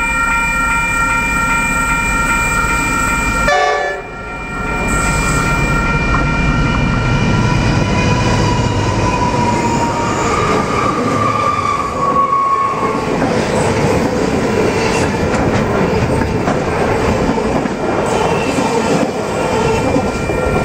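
Freight train locomotive's horn sounding one long steady chord for the first three and a half seconds. The train then passes close by: a continuous heavy rumble with wheel clatter as the wagons roll through.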